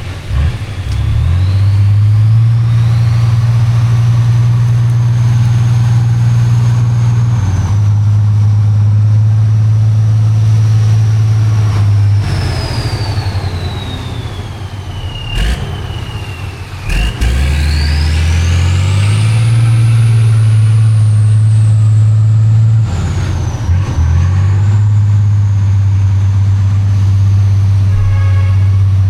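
Heavy off-road trial truck's engine running hard under load, its note dropping away and picking up again several times, with a high whine that climbs and falls above it. Two sharp cracks sound about halfway through.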